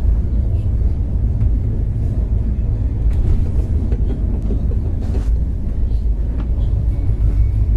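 Moving passenger train: a steady low rumble with a few faint clicks.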